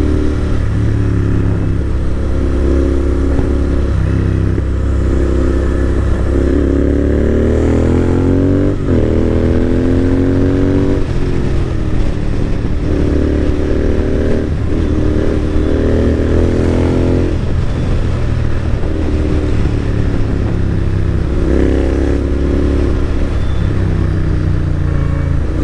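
Royal Enfield GT650's parallel-twin engine through an aftermarket AEW exhaust, accelerating hard through the gears. The revs climb, fall away at each shift and climb again several times over a steady deep exhaust rumble.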